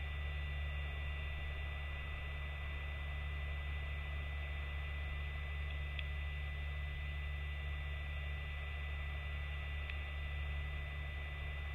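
A steady low electrical hum with a faint high whine over it, and two faint ticks, about six and ten seconds in.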